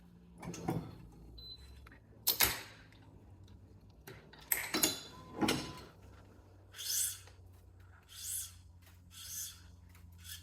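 Hand work on a badminton racquet being strung: a few knocks and rustles, then three short swishing hisses about a second and a half apart, like string being drawn through the frame.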